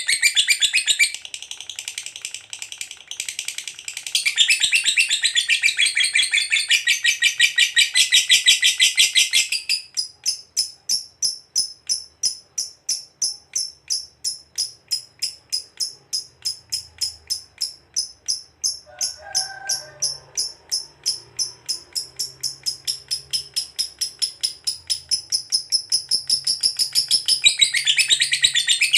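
Lovebird's long 'ngekek' song: dense, high chattering that drops back briefly after about a second, then from about ten seconds in a long, even run of rapid high chirps, before the dense chattering returns near the end.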